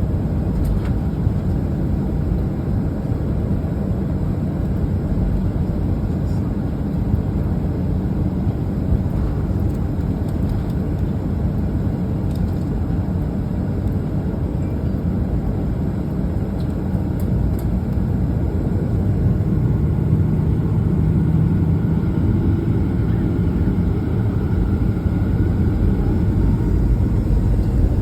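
Steady low rumble of a Boeing 737-900ER's CFM56 jet engines and airflow, heard from inside the cabin, growing slightly louder over the last several seconds.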